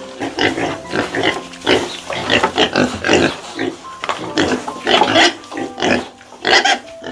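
Animal calls: a rapid run of short, harsh calls, several each second, over faint background music.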